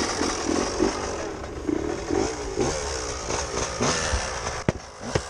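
Dirt bike engine running and being revved in repeated short blips, with two sharp clicks near the end. The owners take its persistent problem for a worn piston ring giving low compression.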